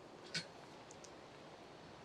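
A single short click about a third of a second in, over a faint steady hiss.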